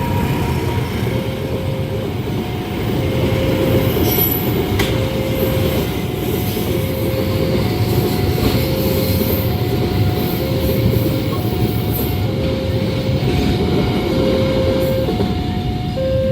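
A train passing close by over a level crossing, its wheels on the rails making a steady, loud rumble. Through it, the crossing's warning alarm sounds a repeating two-note tone, alternating low and high notes about every three-quarters of a second.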